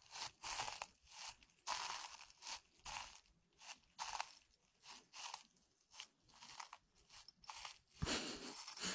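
Dry, crisp crunching of dried flower tea handled close to the microphone, in irregular short bursts with quiet gaps between them, like walking on dry autumn leaves.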